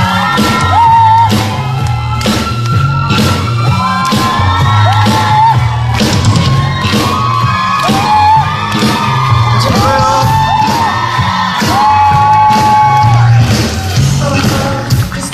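Upbeat pop dance track playing loud at a live performance, with a steady drum beat and synth, and whoops and yells from the crowd or performers over it.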